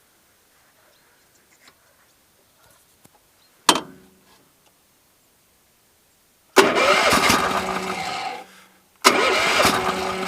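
Start attempts on the mini tractor's Honda GX390 single-cylinder four-stroke engine. A short sharp burst comes a little over a third of the way in, then the engine twice fires up loudly for a second or two and dies away without settling into running.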